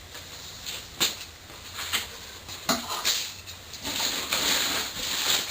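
Packaging being handled and pulled off a new exhaust header: a few light knocks, then steady rustling of wrapping from about four seconds in.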